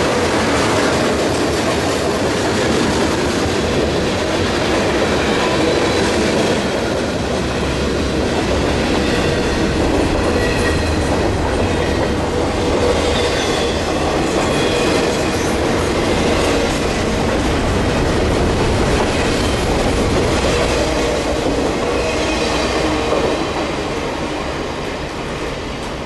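Freight cars of a CSX manifest train rolling past, steel wheels clattering over the rails with intermittent high-pitched wheel squeal. The sound eases off near the end.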